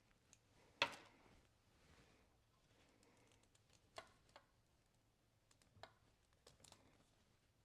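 Near silence broken by a few scattered small clicks and light taps, the sharpest about a second in: small hardware and tools being handled on a workbench while a buckle is fitted to a leather belt with Chicago screws.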